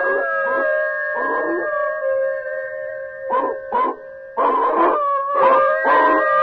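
Canine howling: several long howls held on steady pitches overlap, while short sharp yelps cut in again and again, most of them in the second half.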